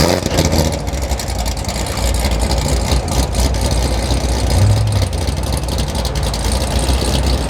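A car engine idling with a deep exhaust note.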